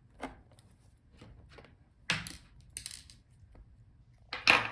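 Small clicks and taps of a screwdriver working out laptop bottom-case screws, with louder metal clatters about two seconds in and near the end, like small screws being set down.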